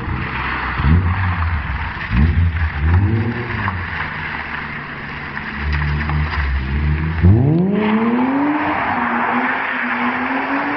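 BMW E36 M3 straight-six running through a Scorpion aftermarket exhaust: a few short blips of the throttle, then, about seven seconds in, a hard acceleration where the engine note climbs quickly and holds at high revs.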